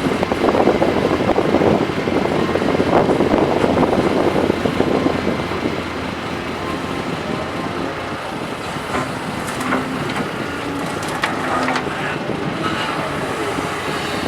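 Doosan hydraulic excavator working, its diesel engine running hard for the first few seconds and then easing off, with scattered metallic knocks and clanks in the second half.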